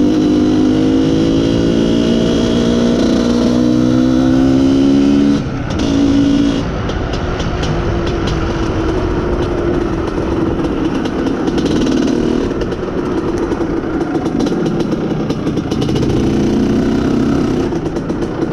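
IZh Planeta Sport's single-cylinder two-stroke engine running under way, its pitch rising for about five seconds, dropping briefly, then running on at changing speed. The owner blames a lean mixture for the engine no longer pulling properly.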